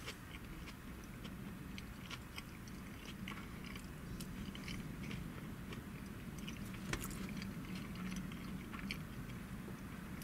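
A person chewing a mouthful of vegan cheeseburger with the mouth closed: soft, wet clicks and smacks, scattered irregularly, over a low steady hum.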